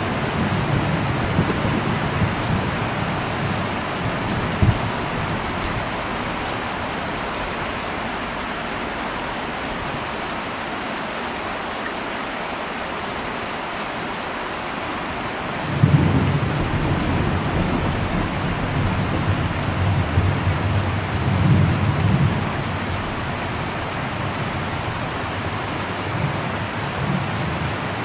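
Heavy rain falling on an old metal roof, a steady hiss, with thunder rumbling: one roll fades over the first few seconds, and another breaks in suddenly about halfway and swells several times before dying down, with a further rumble near the end.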